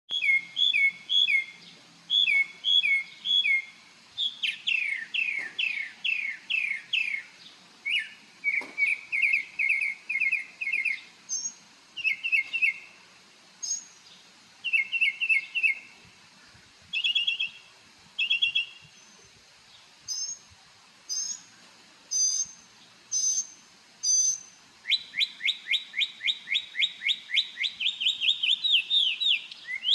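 A songbird singing a long, varied song: loud, quick down-slurred notes grouped into phrases, each phrase repeated several times in a row before it changes to another, with a long fast run of notes near the end.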